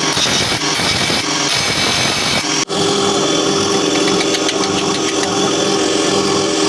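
A motor running steadily, breaking off for an instant about two and a half seconds in, then going on with a steadier hum.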